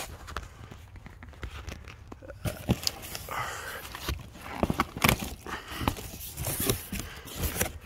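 Packaging being opened and handled by hand: crinkling and tearing with scattered knocks and clicks.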